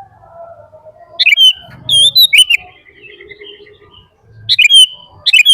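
Bird calls: short, loud, high-pitched calls that bend in pitch, coming in a few groups, with fainter, lower chirps between them.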